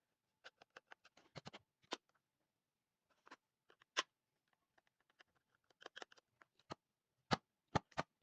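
Irregular clicks, taps and light knocks of small tools and parts being handled during a repair, with a few sharper knocks near the end.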